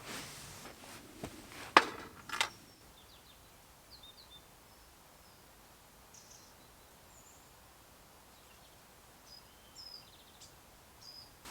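A few sharp knocks in the first couple of seconds, then quiet open-air ambience with faint, short, high bird chirps scattered through the rest.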